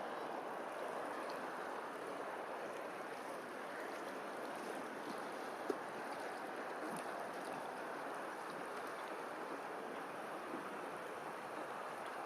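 Steady rush of running water, like a stream, with one sharp click about halfway through.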